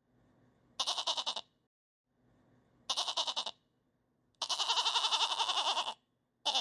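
Goat bleating, four wavering calls in a row, the third held much longer than the others.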